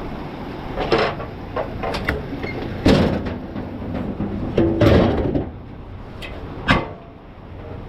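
A handful of sharp clunks and knocks, about two seconds apart, like doors or lids being shut, over a steady low background rumble.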